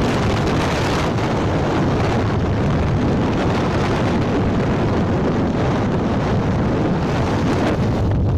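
Steady wind rush buffeting the microphone on a moving motorcycle, mixed with the drone of the bike and the road.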